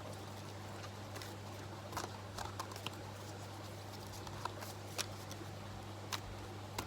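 Oracle cards being shuffled by hand: scattered soft clicks and taps at irregular intervals, over a steady low hum.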